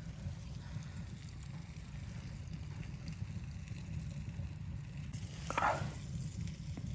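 Steady low rumble of wind with faint crackling from a wood stove fire, and one brief louder noise a little before the end.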